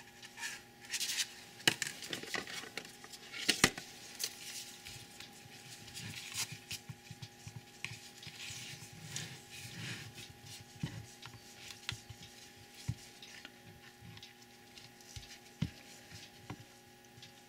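Soap-making utensils handled against containers: a spatula or spoon scraping and rubbing, with scattered light clicks and knocks, the sharpest a few seconds in.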